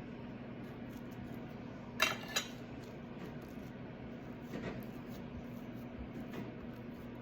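Two light clinks of kitchenware close together about two seconds in, with a few faint ticks later, over a steady low hum.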